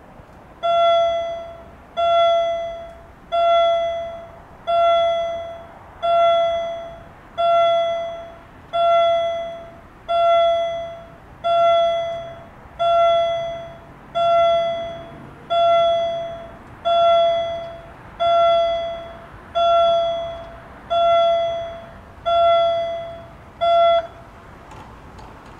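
Level crossing warning signal sounding: a loud bell-like tone struck about once every 1.3 seconds, each stroke dying away, about eighteen strokes in all, stopping about 24 seconds in.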